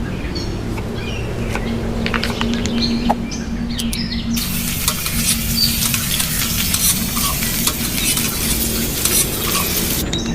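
Food frying in a pan, with clinks and scrapes of a utensil stirring. About four seconds in a loud sizzle sets in, and it stops shortly before the end.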